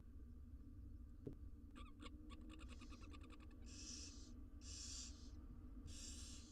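Barn owl nestlings hissing three times, the rasping begging calls of young barn owls, after a quick run of clicks about two seconds in.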